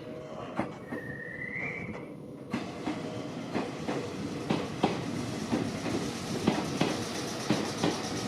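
Meitetsu 6500 series electric train rolling slowly along the platform, its wheels clacking over the rail joints in quick pairs about once a second as each bogie passes, with the running noise growing from about two and a half seconds in. A short rising squeal sounds about a second in.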